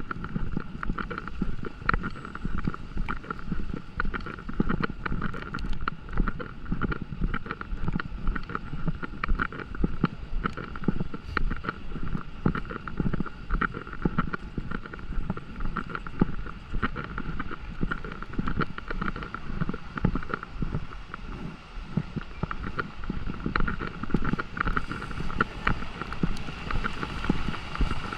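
Wind buffeting the microphone in a gusty low rumble, with many small ticks of rain scattered through it.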